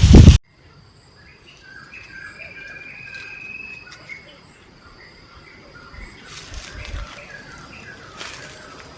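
Insects trill in steady high tones while birds chirp at intervals, with one longer call about two to four seconds in. Before that, a loud rush of rain cuts off abruptly in the first half-second.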